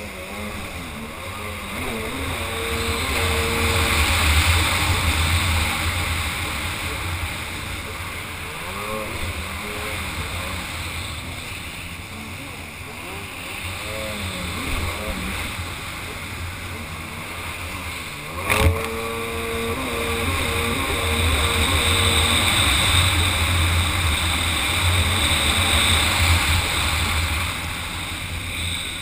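Kawasaki 800 SX-R jet ski's two-stroke twin engine running under throttle, swelling and easing as the rider opens and closes the throttle, with water rush and wind on the microphone. A single sharp knock about two-thirds of the way through.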